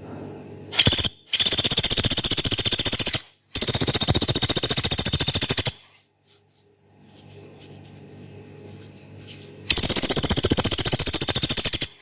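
Pelatuk beras, a small pygmy woodpecker, giving fast, dry, high rattling trills: a short burst about a second in, then three long rattles of about two seconds each.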